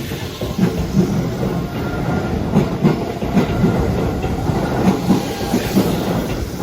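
Keihan 10000-series electric train moving past, its wheels clacking over rail joints in an uneven run of knocks over a steady rumble.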